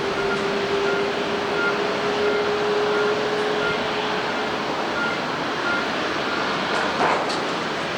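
Jet airliner engines running: a steady rushing noise with a whine that rises slightly over the first few seconds and then fades.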